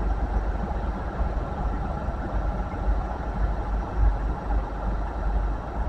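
Steady low engine rumble with a faint constant whine above it, and no distinct events.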